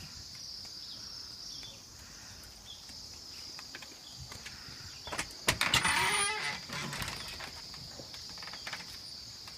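A large flock of birds in the treetops, chirping in a dense, steady high-pitched chorus. About five seconds in, a louder burst of rustling and crackling lasts a second or two, with a few short calls in it.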